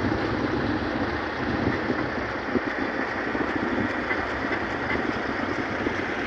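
A vehicle running, a steady noise without breaks.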